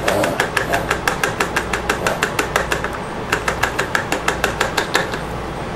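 Quick, even clinking of a hard utensil against a container, about six or seven strikes a second, with a brief pause about three seconds in and stopping shortly before the end.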